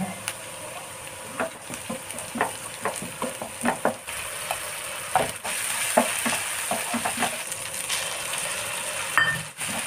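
Chopped onions, green chilli and curry leaves frying in hot oil in a nonstick pan: a steady sizzle broken by frequent short crackles and pops.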